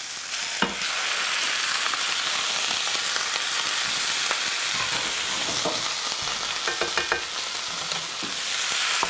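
Ground deer meat and chopped onions sizzling in hot olive oil in a skillet: a steady frying hiss that grows louder after the meat drops into the pan less than a second in, with a few scrapes and taps of the spatula against the pan.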